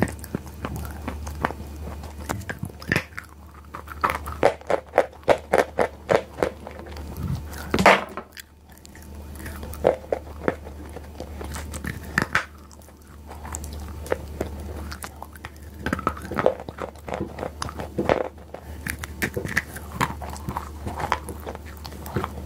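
Close-miked biting and chewing of crunchy chalk and clay paste: irregular clusters of sharp crackling crunches, over a steady low hum.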